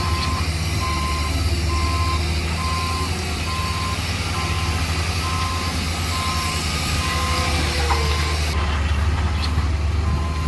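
Reversing alarm on a heavy construction machine beeping steadily at about one beep a second, over the low, steady rumble of the machine's engine.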